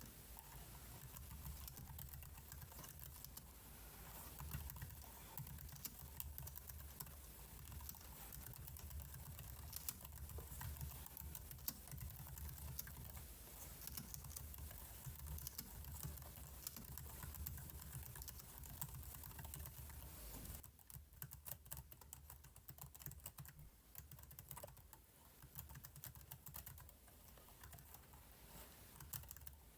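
Computer keyboard being typed on, with quiet key clicks coming irregularly. A low hum underneath drops away about two-thirds of the way through, and the clicks become sparser after that.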